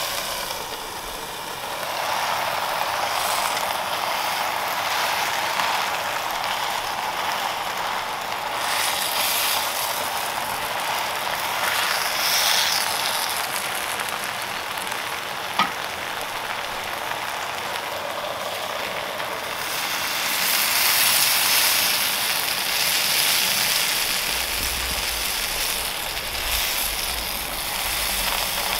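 Ground-beef and tomato filling sizzling in a hot pan on a gas burner: a steady crackling hiss, with one sharp click about halfway through and a low rumble coming in near the end.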